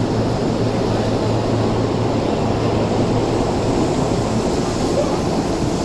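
Electric commuter train standing at the platform with its onboard equipment running in a steady hum, then starting to pull away, a faint rising whine coming in near the end.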